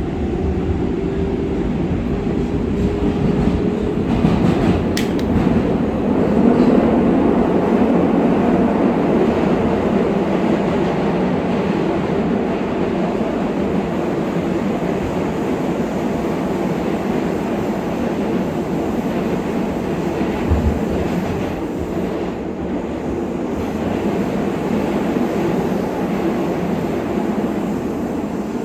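R188 subway train running, heard from inside a car: a steady loud rumble of wheels and motors, with a faint whine rising in pitch over the first few seconds and a sharp click about five seconds in.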